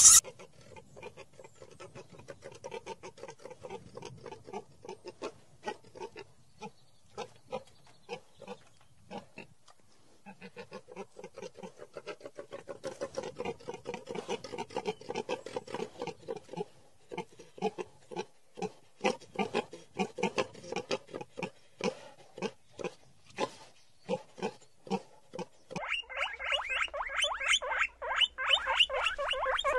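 An animal making long runs of short, rapid low grunts, broken by brief pauses. About four seconds before the end, a different, higher-pitched and busier animal sound takes over.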